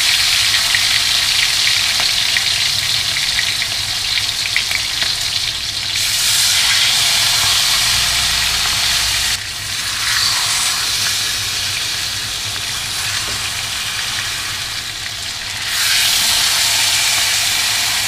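Marinated chicken thighs sizzling in hot oil in a wok over medium-low heat, a steady frying hiss that swells louder about six seconds in and again near the end as more pieces are laid into the oil.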